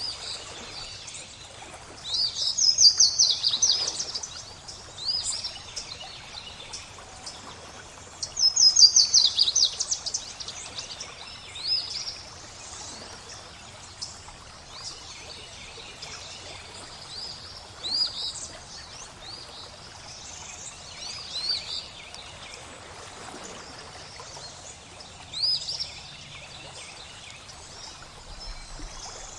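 Songbirds singing over a faint steady trickle of flowing water. Two loudest phrases, each a fast run of repeated high notes, come about two seconds and eight and a half seconds in, with shorter chirps scattered throughout.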